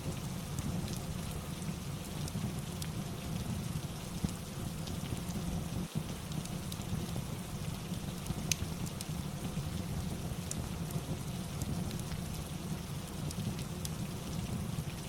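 Steady rain ambience with a low rumble, with sparse sharp crackles and pops of a wood fire scattered through it.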